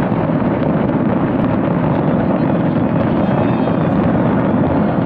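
Large fireworks display: many distant shells bursting at once, blending into a continuous loud rumble with no single bang standing out.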